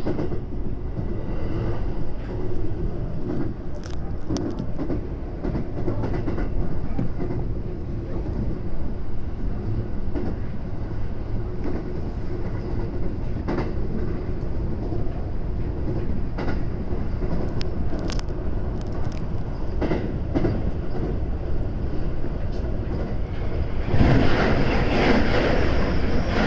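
Running noise inside the cab of a JR West 521 series electric train at speed: a steady rumble and hum with scattered clicks of the wheels over the rail. About 24 seconds in, a white-and-blue limited-express train passes on the adjacent track with a loud rushing sound.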